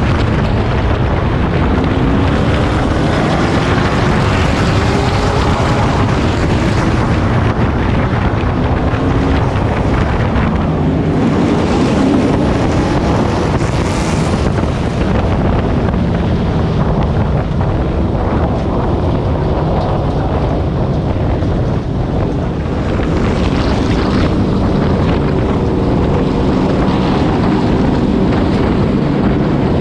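Pro Truck race truck's V8 engine running hard at racing speed, recorded on board, its pitch rising and falling over and over as the driver accelerates and lifts. Heavy wind and road noise buffet the onboard microphone.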